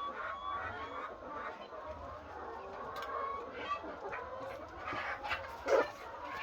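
A large flock of laying hens clucking and calling over one another in a continuous chorus, with one louder call or knock near the end.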